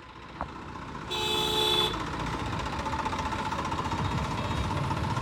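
A vehicle engine running and getting louder, with one horn blast just under a second long about a second in.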